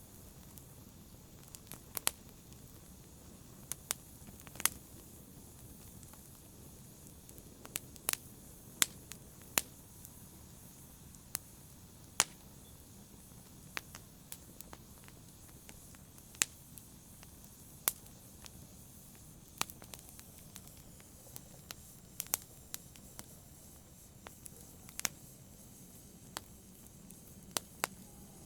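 Wood fire in a fireplace crackling: sharp, irregular pops and snaps, about one or two a second, over a faint low hiss.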